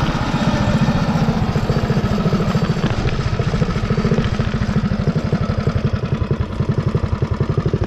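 Mini bike's Predator 212cc single-cylinder engine running hard at speed. In the second half its firing pulses come slower and more distinct as the revs drop.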